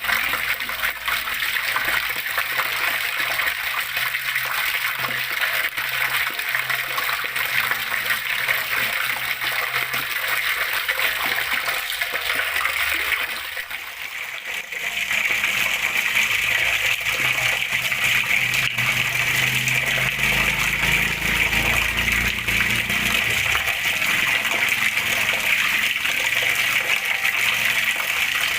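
Water flowing steadily, a continuous splashing rush. About halfway through it drops away for a moment, then returns brighter and hissier.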